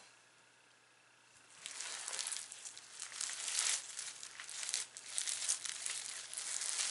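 Sticky slime being squished and stretched in the hands after a spritz of water, giving a dense run of wet crackling and popping clicks that starts about a second and a half in.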